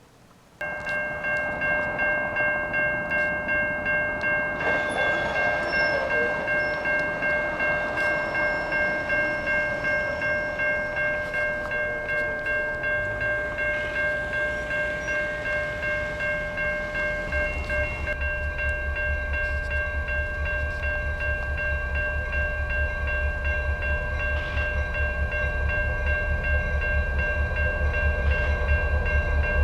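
A train running slowly along the track: a steady whine of several held tones over a regular pulsing beat, with a low, rapid throb joining about two-thirds of the way in.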